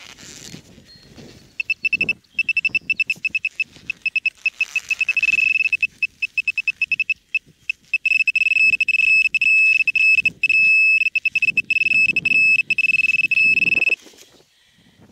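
Handheld metal-detecting pinpointer beeping at one high pitch as it is worked through a dug plug of soil, the beeps coming quicker and then merging into an almost solid tone before cutting off near the end: it is closing in on and sitting over the buried target, a one-cent coin. Soil rustles and crumbles under the hand.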